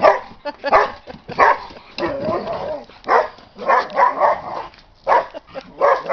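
Puppies barking over and over in rough play, a short bark roughly every half to one second, with one longer drawn-out call about two seconds in.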